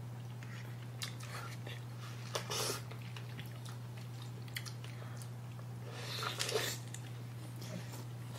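Close-up eating sounds of large, juicy strawberries with whipped cream being bitten and chewed: a few short, wet mouth sounds at irregular intervals, over a steady low hum.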